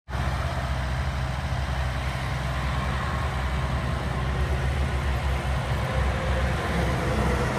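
Steady low rumble of road vehicles and engines running, with no distinct pass-bys or impacts.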